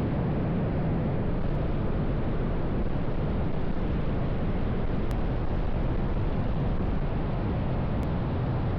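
Steady, unbroken roar of twin-engine Su-35S fighter jets, heaviest in the low rumble.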